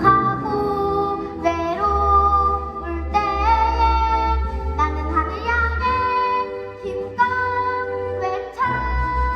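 Children's voices singing a song in held, gliding notes over an instrumental backing track.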